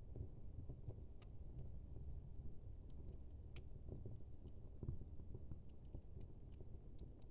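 Wood fire of burning logs: a faint low steady rumble of flame with irregular sharp crackles and pops scattered throughout.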